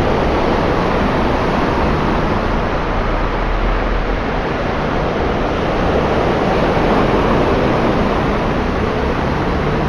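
Steady rush of road traffic on a flooded street: tyres hissing and spraying through standing water, with the low rumble of passing engines.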